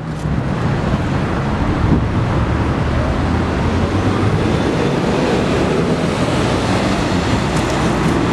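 Steady rushing noise with a low rumble underneath, typical of wind on the microphone outdoors.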